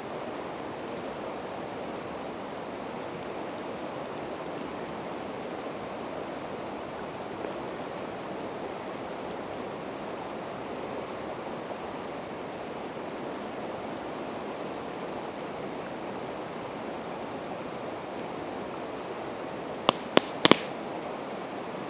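Steady rushing of a river, with a faint high pip repeated about twice a second through the middle. Near the end a campfire of split evergreen wood gives four sharp pops in quick succession.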